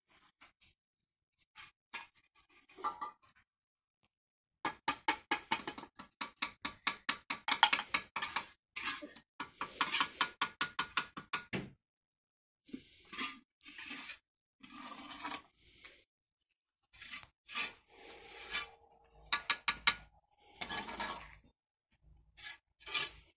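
Masonry hand-tool work on brick and mortar: a run of rapid even strokes, about four a second, for some seven seconds, then scattered single knocks and scrapes.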